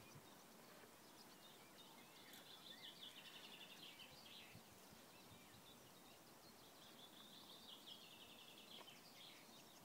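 Faint songbird singing two rapid trilled phrases, one about two seconds in and another near the end, over a quiet hiss of outdoor background.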